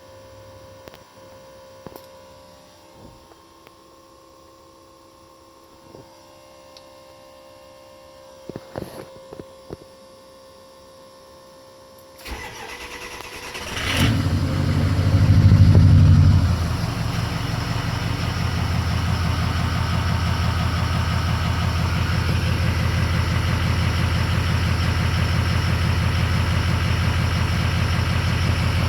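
Ford 6.0 Powerstroke V8 diesel, bored .030 over with a stage 2 cam, cold-started. For about twelve seconds there is only a faint steady hum and a few clicks. Then the starter cranks for a second or two, the engine catches, flares up loudest for a couple of seconds, and settles into a steady idle.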